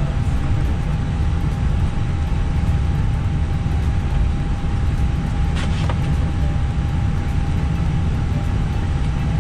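Cockpit noise of an Airbus airliner rolling onto the runway with its engines at idle: a steady low rumble under a thin constant hum tone. A single brief click about five and a half seconds in.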